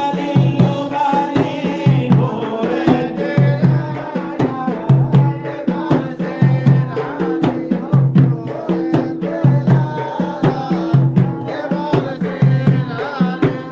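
Maled devotional chant: a man's voice singing a melismatic line over hand drums beating a steady repeating rhythm.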